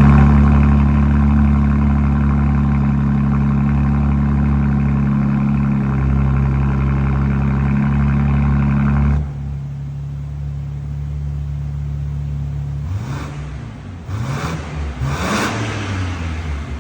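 2024 BMW M2's twin-turbo inline-six running through a new cat-back exhaust. It holds a steady, raised idle, drops suddenly to a lower, quieter idle about nine seconds in, then is given three quick throttle blips near the end.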